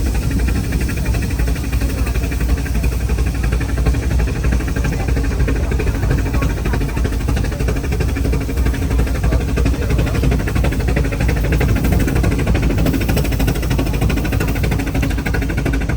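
Passenger train running: a steady low rumble that holds even throughout.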